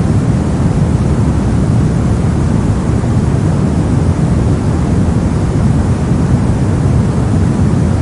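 Steady, unchanging soft noise, deep and rumbling, with most of its weight at the low end and only a faint hiss above.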